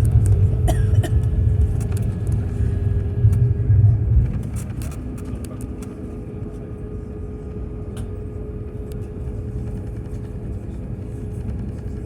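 Airliner cabin during takeoff: the engines drone with a steady hum under a heavy rumble that drops away about four seconds in, leaving a quieter steady roar, with scattered light clicks and rattles.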